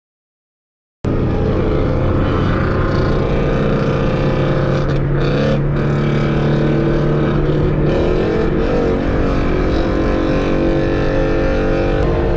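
Engine and road noise of a tuned Alfa Romeo Giulia Quadrifoglio's twin-turbo V6, heard from inside the cabin while cruising at a steady speed. It starts after about a second of silence.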